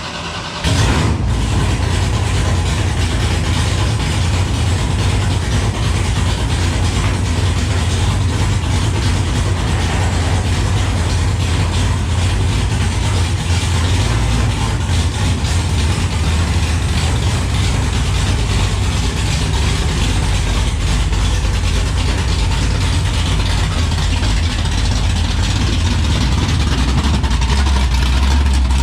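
A rollback truck's engine running steadily with a low drone that comes up suddenly about a second in. The lowest rumble grows somewhat stronger near the end.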